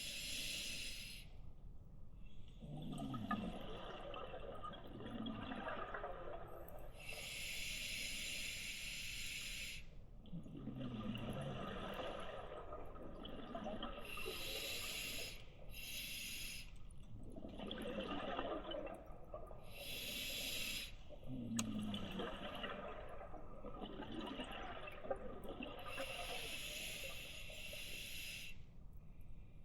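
Scuba diver breathing through a regulator underwater: a hiss of air through the demand valve on each inhale, then a burst of exhaled bubbles gurgling out, repeating in a slow cycle about every six seconds.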